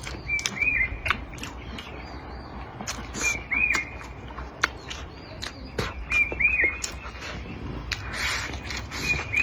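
A bird calling outside, one short chirp about every three seconds, over the close clicks and smacks of someone eating.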